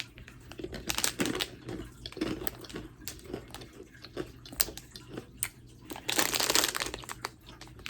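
Plastic snack wrapper of a pack of Colombian achira biscuits crinkling and crackling as it is handled and opened, with a louder burst of rustling near the end.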